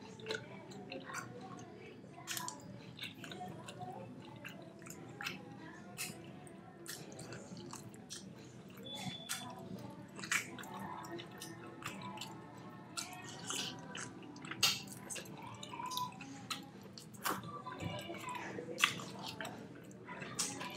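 A person chewing and biting tender smoked beef steak eaten by hand, close to the microphone, with irregular mouth clicks and smacks.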